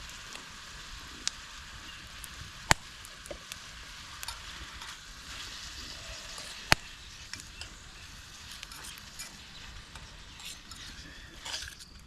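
Cooking over a campfire: a steady sizzling hiss broken by a few sharp pops, the two loudest about three and seven seconds in.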